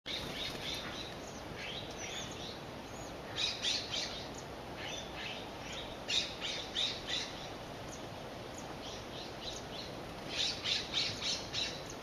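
Birds calling with short, sharp high notes in three quick runs of four to six, about three and a half seconds in, around six seconds and near ten and a half seconds, over a steady faint hiss.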